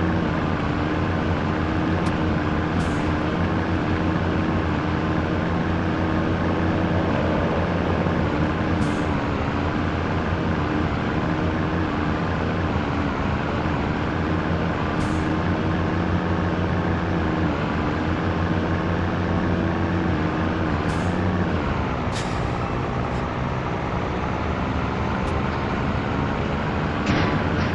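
Scania T113 truck's diesel engine running steadily under way. About twenty-one seconds in its pitch drops and then slowly climbs again, with a few short high hisses now and then.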